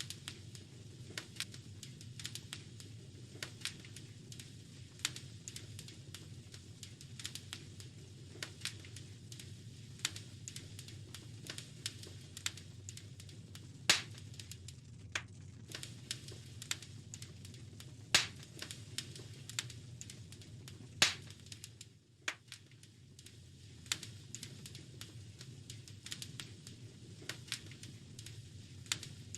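Wood fire crackling steadily, with a rapid, irregular run of small snaps over a low steady rumble and three louder pops, about fourteen, eighteen and twenty-one seconds in.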